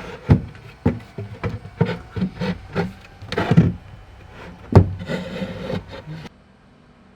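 A freshly cut hearth base board being knocked and shuffled into position: a series of wooden knocks and thuds mixed with scraping slides. The sound cuts off abruptly about six seconds in.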